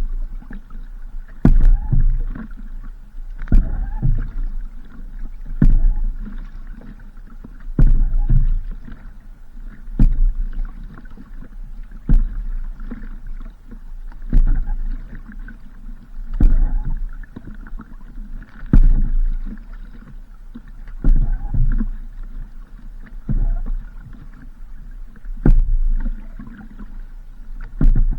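Paddle strokes of a small paddled boat, about one every two seconds, each starting with a sharp knock followed by a short rush of water over a steady low rumble.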